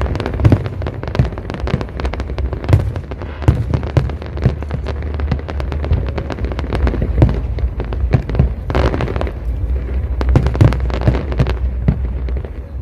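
Aerial fireworks display bursting: a dense, irregular run of loud bangs and crackles, many a second, over a steady low rumble.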